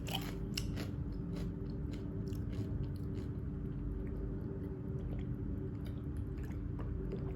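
Faint mouth sounds of eating: small soft clicks scattered throughout, over a steady low hum.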